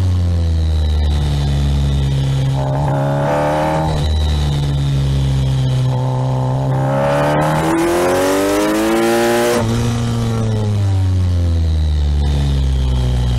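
Kawasaki Ninja 1000SX's inline-four engine, heard from the rider's seat while riding. The revs rise as he accelerates and fall off into corners, and the pitch drops sharply at a gear change about four seconds in and again near ten seconds.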